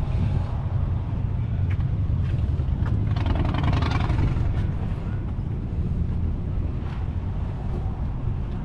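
Low, steady rumble of a car engine running, with a brief stretch of louder, hissier noise about three seconds in.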